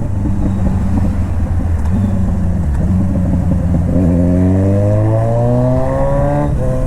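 Kawasaki Z900's inline-four engine through a full-system aftermarket exhaust, described as too much loud, accelerating under way: the revs climb steadily from about four seconds in, then drop suddenly near the end at a gear change.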